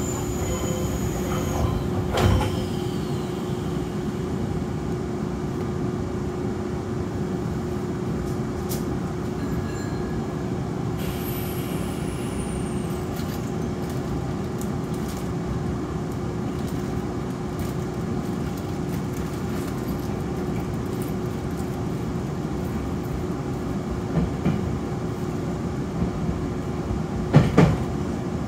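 Nankai Koya Line electric train running, heard from inside the car: a steady rumble with a constant hum, faint high whines falling in pitch near the start and again about eleven seconds in, and a few sharp knocks near the end.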